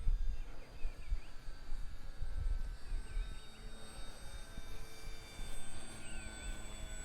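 Arrows Bigfoot RC airplane's electric motor and propeller whining steadily in flight, the pitch drifting slightly, with wind rumbling on the microphone.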